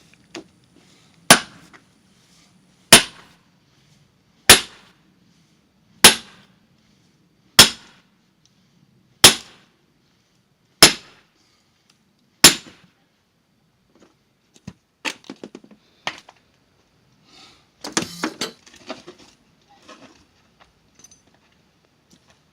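Splitting a big log for firewood with a heavy axe and sledgehammer: eight hard, ringing blows, evenly spaced about a second and a half apart. Then a run of smaller, scattered knocks and clatter.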